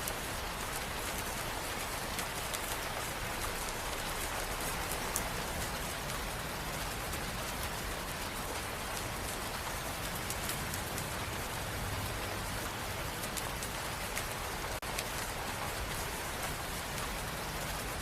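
Steady rain falling on hard surfaces, with scattered individual drop ticks, as a continuous rain ambience track.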